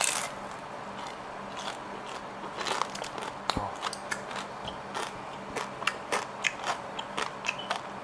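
A person biting into and chewing a crisp salt-grilled dried sweetfish (ayu). There is a loud crunch right at the start, then many irregular crackly crunches as the head and bones are chewed, crisp like a cracker rather than hard.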